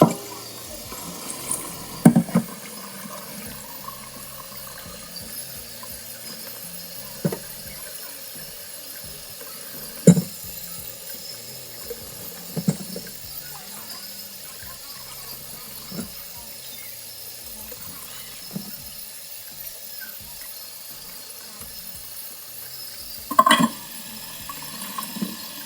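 Kitchen work with running or pouring water: a steady watery hiss, broken by scattered knocks and clinks of utensils, the loudest about 2 s, 10 s and 23 s in.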